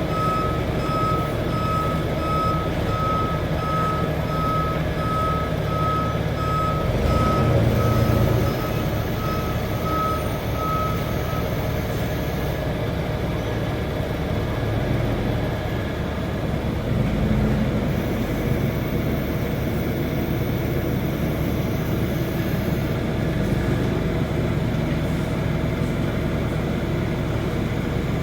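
Brown & Sharpe No. 1 OD cylindrical grinder running through a grinding cycle, a steady machine noise with a few heavier surges. Over it a high, evenly pulsing beep sounds about twice a second and stops about eleven seconds in.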